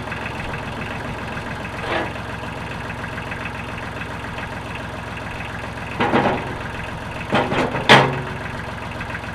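Utility tractor engine idling steadily with an even low pulse. A few short, louder sounds come over it around two seconds in and again between about six and eight seconds in.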